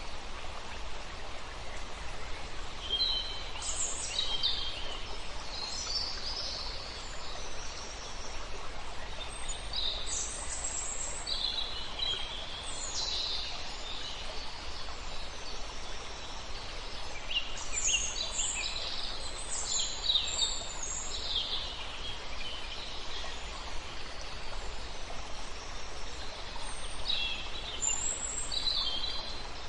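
Songbirds chirping and singing in short, high bursts that come in clusters, over the steady rush of a river.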